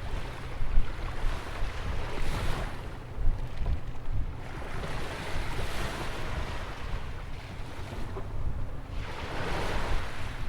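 Atlantic ocean waves breaking and washing in along a beach jetty, swelling to a hiss three times, about every three and a half seconds. A steady low rumble of wind buffets the microphone underneath.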